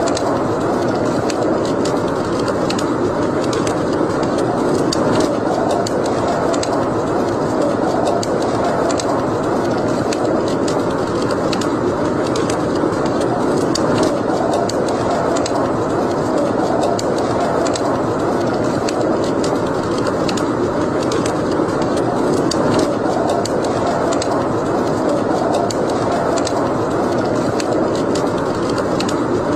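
Wood fire burning in a fireplace: a steady rush of flame with frequent small crackles and pops.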